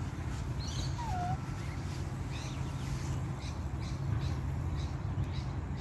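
Birds calling: scattered short chirps and one falling whistle about a second in, over a steady low rumble.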